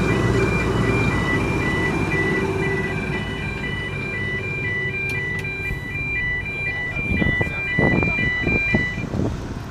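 Electronic two-tone warning beeper sounding in a steady pattern of short alternating high and low beeps, over a low engine rumble that thins out after a few seconds; a few knocks near the end.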